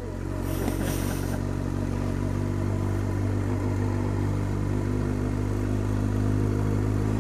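A 1000cc inline-four sport motorcycle engine running at low, steady revs, growing a little louder over the first couple of seconds as the two-up bike gets under way.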